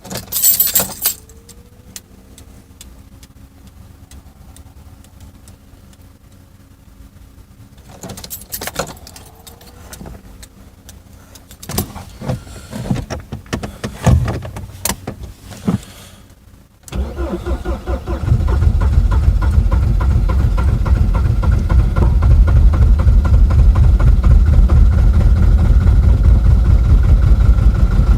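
Older Mercedes-Benz diesel engine being cold-started in deep frost. Clicks, knocks and a few irregular louder noises come first; the engine catches about 17 seconds in and runs loudly with a rapid, even pulse.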